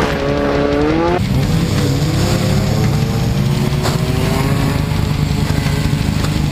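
Demolition derby car engine revving, its pitch climbing slowly over a few seconds, with one sharp knock about four seconds in.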